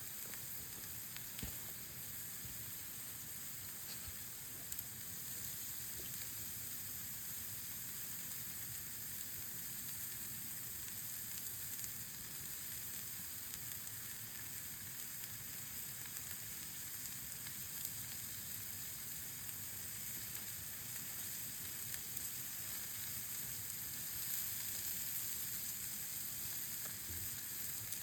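Meat sizzling steadily as it grills over a campfire, with a few faint crackles.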